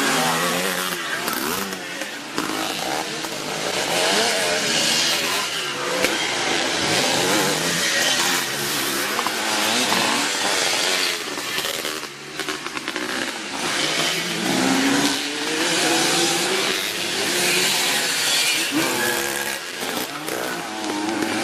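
Several classic twinshock motocross motorcycles racing, their engines revving up and down and overlapping as the bikes pass. The engine note drops briefly about twelve seconds in.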